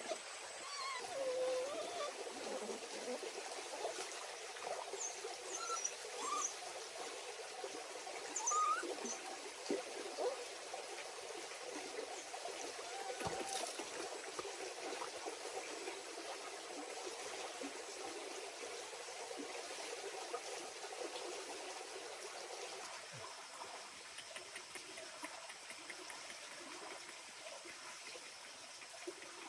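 Water trickling steadily, like a small forest stream, with a few short high chirps in the first ten seconds.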